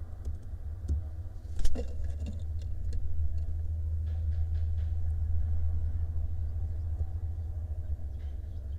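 A steady low rumble, with a brief cluster of sharp clicks and scratches about a second and a half in.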